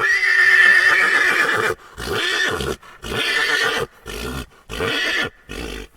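Horse whinnying: one long loud call, then five shorter calls that grow slightly quieter.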